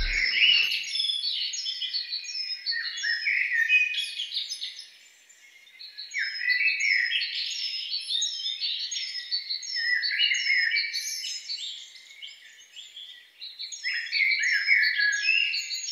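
Many small songbirds chirping and twittering in quick high calls, with a lull about five seconds in. A deep boom dies away at the very start.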